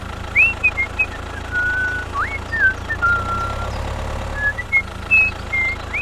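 A string of short whistled chirps, several sliding quickly upward and then holding a note, over a steady low hum.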